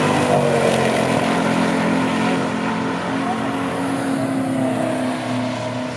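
1971 Plymouth Cuda's 440 Six Barrel V8 engine as the car passes at speed. The engine note drops slightly in the first second, then holds a steady drone.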